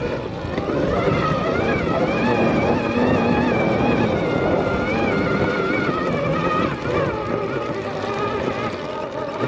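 Arctic Leopard XE Pro electric dirt bike's motor whining, its pitch rising and falling with the throttle over a steady rumble of riding noise.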